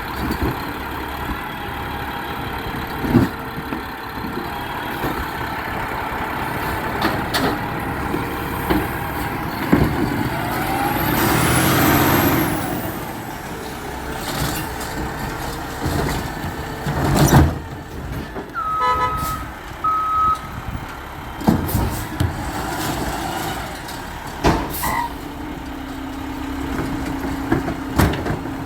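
Garbage truck engine running, with scattered clanks and knocks, a long hiss of released air about halfway through, and two short reversing beeps a little later.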